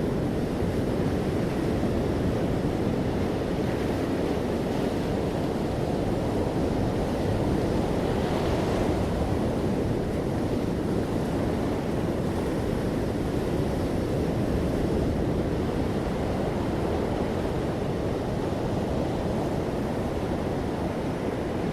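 Ocean waves washing steadily onto a shore, a continuous low surf rush with a slightly brighter swell about eight seconds in.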